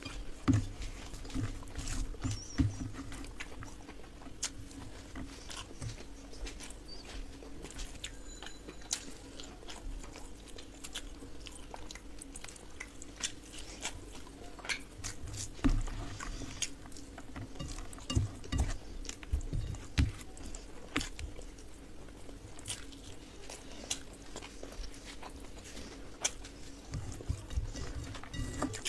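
Close-miked eating sounds: chewing with many small wet mouth clicks, and fingers mixing rice and fried onions on a steel plate. Heavier chewing bursts come in clusters, with a faint steady hum underneath.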